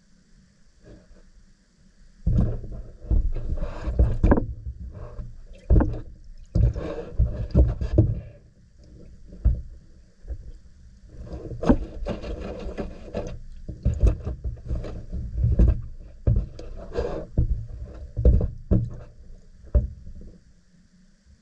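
Irregular handling noise, knocks and rustles in uneven bursts, starting about two seconds in and dying away shortly before the end.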